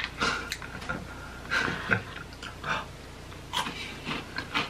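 Close-miked chewing and wet mouth smacking of cheese-dipped spicy chips (Takis and Flamin' Hot Cheetos), in irregular short bursts with clicks of the lips and tongue.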